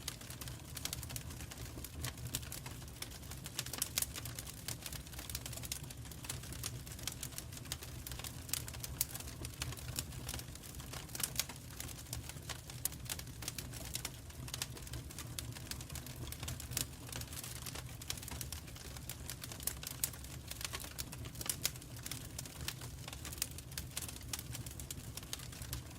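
Fire burning in a fireplace, crackling with many small irregular pops over a steady low rumble.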